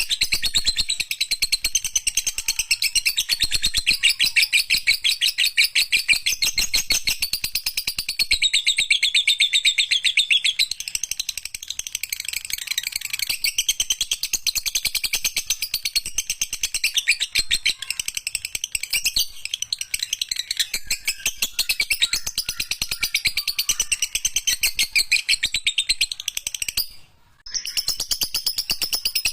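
Lovebird singing a long, unbroken run of very rapid high chirps, the long 'ekek' chatter, with a short break near the end.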